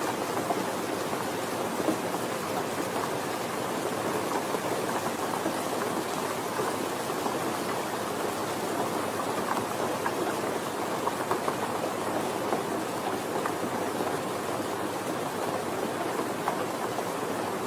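Steady soft rain falling, an even patter with faint scattered drops.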